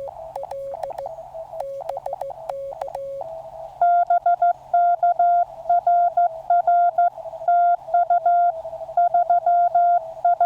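Morse code (CW) tones from a QCX mini transceiver. For about the first three seconds a softer, lower-pitched signal is keyed. Then, from about four seconds in, a much louder, slightly higher tone is keyed in a steady run of dots and dashes, part of a contact exchange.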